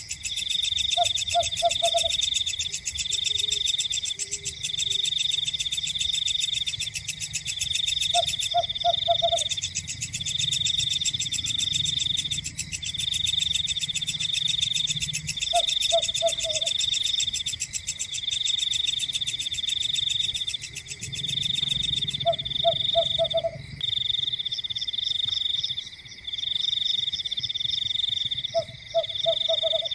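Night chorus: insects trilling without pause in high, pulsing stretches, while a frog gives a short series of three or four croaks about every seven seconds.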